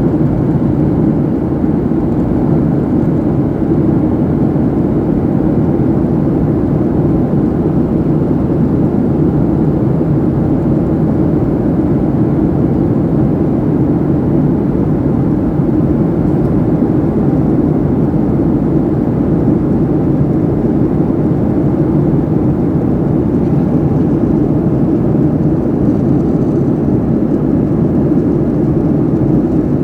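Steady cabin noise of a jet airliner in flight, the engines and rushing air heard from inside the passenger cabin, deep and unchanging.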